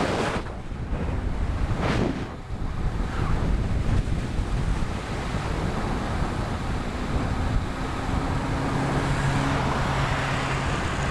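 Wind buffeting the microphone of a camera on a moving road bike, with a steady low rumble and two brief gusts early on. From about two-thirds of the way through, a motor vehicle's engine hum joins it.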